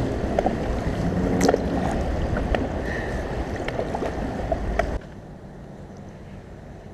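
Water splashing and lapping around a small paddled boat, with scattered sharp knocks. It cuts off suddenly about five seconds in, leaving a much quieter steady background hum.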